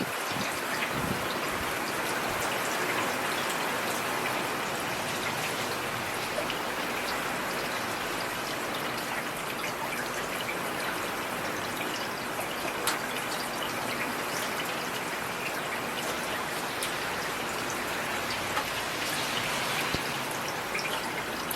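Heavy rain falling steadily, a dense even hiss, with single drops ticking sharply now and then.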